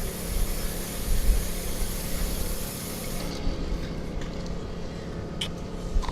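Aerosol can of Muc-Off spraying in a continuous hiss that cuts off about three seconds in, over a steady low hum; a couple of small clicks near the end.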